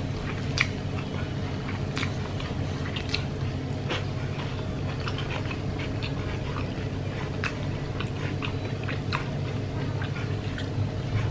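Close-up mouth sounds of a person chewing a mouthful of rice and smashed fried chicken: irregular wet clicks and smacks scattered throughout, over a steady low hum.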